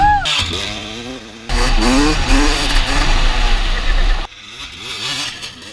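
Honda CR250R two-stroke motocross engine revving up and down as the bike is ridden, with wind buffeting the camera microphone. The engine note eases off briefly about a second in, picks up again, then drops back for the last second and a half.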